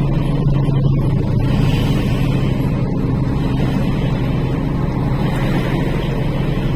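Truck engine running steadily with a constant low hum and road noise, heard from inside the cab.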